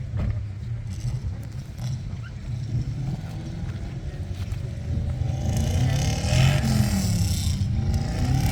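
A car engine running, growing louder from about five seconds in as its pitch rises and falls.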